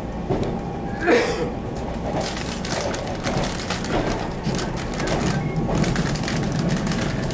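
Running sound inside a Taiwan Railway EMU700 electric train car: a steady rumble of wheels on rail, with frequent clicks and rattles. About a second in comes a brief, louder clatter that falls in pitch.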